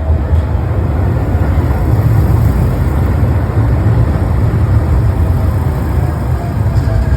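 A train running with a steady heavy rumble.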